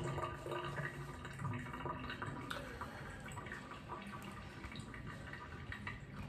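A terry-cloth towel rubbed and patted over a freshly rinsed, wet face, giving faint, soft rustling and a few scattered small ticks.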